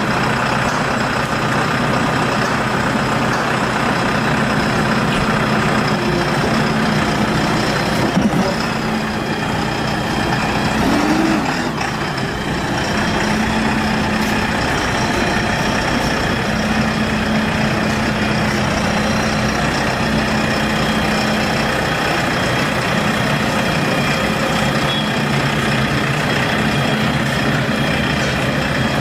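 Diesel engine of a JCB backhoe loader running steadily at idle, with a brief rise in pitch about eleven seconds in.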